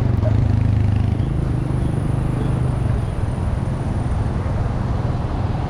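Low rumble of wind and road noise on the microphone of a moving e-bike, with a steady low engine-like hum from traffic for about the first three seconds.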